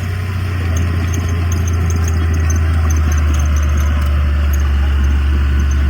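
Heavy diesel engine of earthmoving machinery running steadily with a deep drone, with faint high-pitched squeaks chirping irregularly over it.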